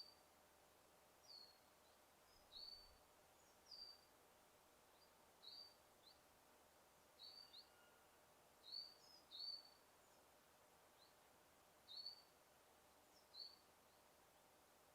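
Faint, short bird chirps repeating about once a second over a quiet, steady background hiss.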